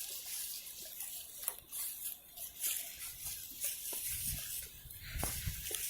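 Scattered rustling and crackling of forest-floor litter underfoot, with low rumbling in the last two seconds or so.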